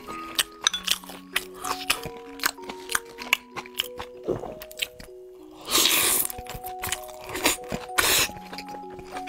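Close-miked eating of a steamed dumpling: many short wet chewing clicks and lip smacks, with two louder noisy rushes about six and eight seconds in, over background music with a simple stepping melody.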